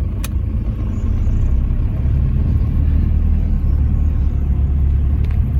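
Steady low road and engine rumble of a Toyota Hilux pickup driving, heard from inside the cab, with a single click about a quarter second in.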